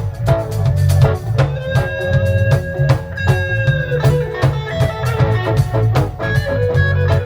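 Lovers rock reggae band playing an instrumental passage: guitar and drum kit over a heavy, steady bass line, with long held melody notes on top.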